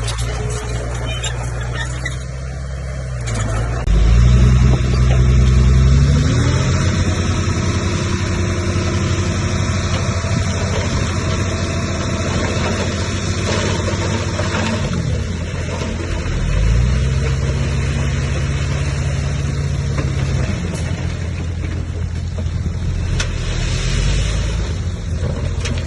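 Komatsu bulldozer's heavy diesel engine running under load, revving up hard about four seconds in, easing off around fifteen seconds, and revving up again shortly after.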